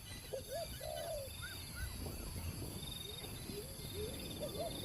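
A bird calling in short arching notes, in two runs of quick repeated calls. A faint, high, pulsing trill runs behind it.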